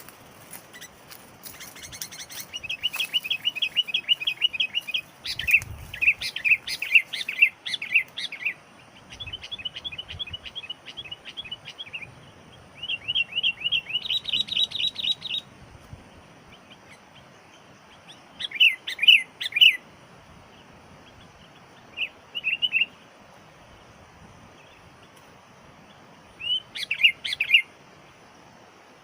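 Sooty-headed bulbuls (kutilang) chirping in quick runs of many notes, each run lasting a few seconds. Later the calls come as short bursts several seconds apart. This is the calling of the trained decoy bulbul and wild bulbuls drawn to it.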